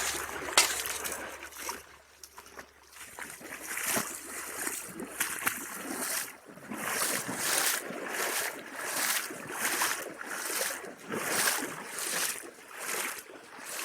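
Rubber waders wading through a shallow creek: steady, regular sloshing strides, about one and a half a second, that begin about halfway through, with a few scattered knocks before them.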